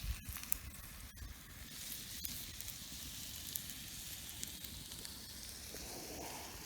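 Campfire crackling with a steady sizzling hiss and scattered sharp pops; the sound cuts off abruptly at the end.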